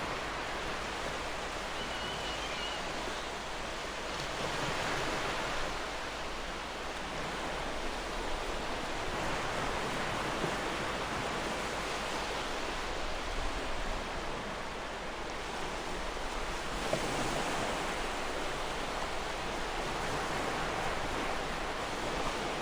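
Gentle ocean waves washing on the shore, a steady hiss that swells softly every few seconds. A faint bird chirp comes about two seconds in.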